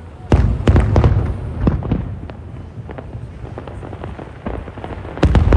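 Aerial fireworks shells bursting: a quick volley of sharp bangs with a low rumble, a few scattered pops, then another loud volley near the end.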